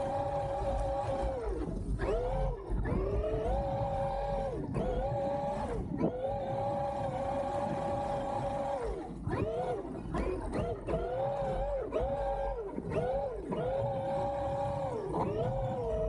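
Traxxas X-Maxx 8S brushless electric motor and drivetrain whining at a high, steady pitch, then dropping sharply and climbing back again and again as the throttle is let off and reapplied while the truck drives through snow.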